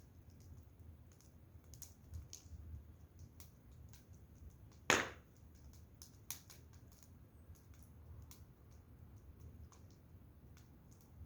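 Wood fire crackling: scattered small ticks and snaps, with one loud pop about five seconds in and a smaller one a second later.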